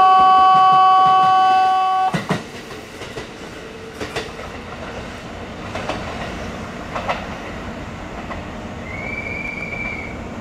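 A loud, steady electronic tone cuts off about two seconds in. Then a Kintetsu 21020 series Urban Liner Next limited express pulls out with a low rumble and a few sharp clacks as its wheels cross rail joints and points. A brief high wheel squeal comes near the end.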